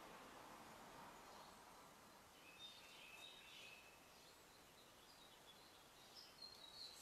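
Near silence with faint background hiss and a few short, high bird chirps, in two clusters: about halfway through and again near the end.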